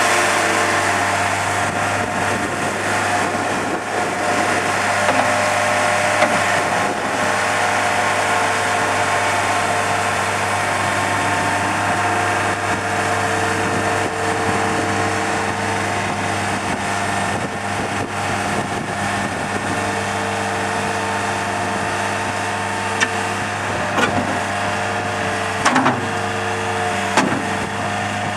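Mustang 2054 skid steer loader's engine running steadily, with a few short sharp knocks near the end.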